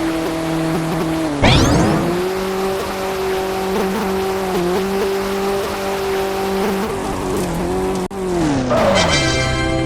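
A car engine sound running at a steady pitch. About a second and a half in, a sudden sweeping squeal cuts across it. Near the end the pitch falls steadily, as if the vehicle is slowing down.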